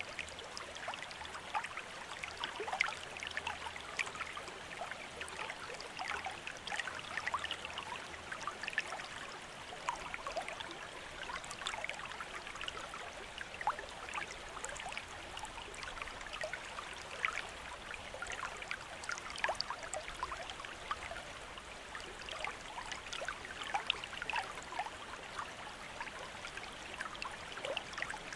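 Bamboo water fountain trickling steadily, a continuous run of small splashes with no pause or knock.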